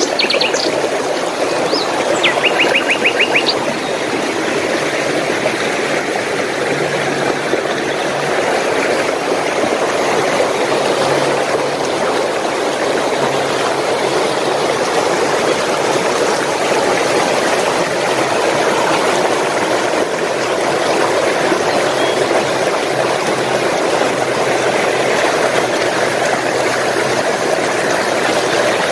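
Running stream water flowing and splashing steadily. Small birds give a couple of quick trills in the first few seconds.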